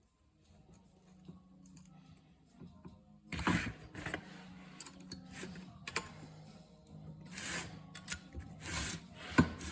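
Tools and metal parts being handled while a set screw is fitted into a tractor shift cover: a run of sharp clicks, clinks and short scrapes starting a few seconds in, the loudest a sharp click near the end, over a faint steady hum.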